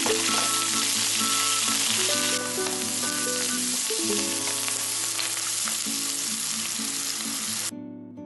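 Garlic scapes sizzling as they stir-fry in a little hot salad oil in a frying pan, the first quick fry to part-cook them. The sizzle eases a little about two seconds in and cuts off abruptly near the end, with gentle acoustic guitar music underneath.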